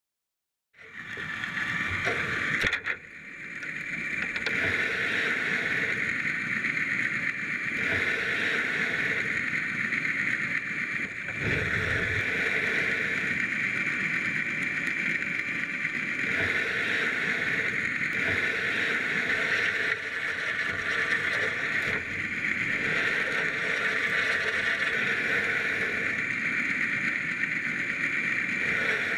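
A steady mechanical hum with hiss, like a motor heard through water, starting about a second in and dipping briefly near three seconds.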